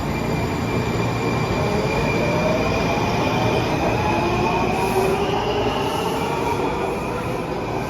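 Washington Metro train running through the station: rail rumble with high whining tones from the wheels and drive that drift slowly in pitch.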